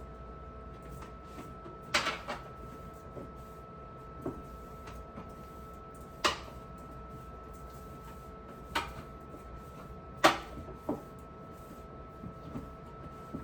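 Scattered knocks and clacks of hard things being handled and set down while a refrigerator is cleaned, about nine in all, the loudest about two and ten seconds in, over a steady faint hum.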